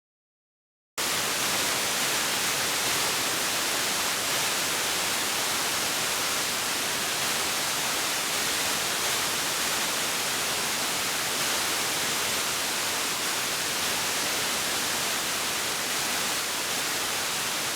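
Steady, even hiss like white-noise static, starting abruptly about a second in and cutting off sharply near the end, with no change in between.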